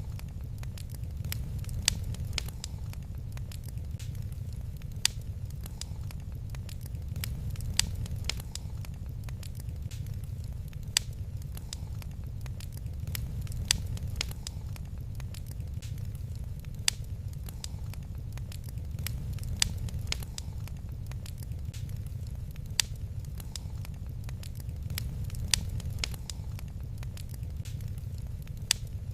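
Wood fire crackling, with sharp pops every few seconds over a steady low rumble.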